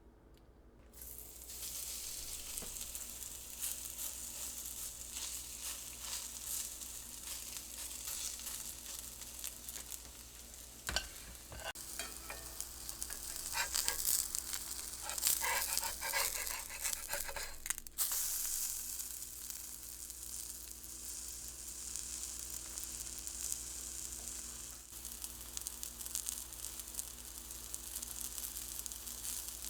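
Zucchini fritters frying in a pan of hot oil: a steady sizzle that starts about a second in, with a louder stretch of crackling and clicking in the middle.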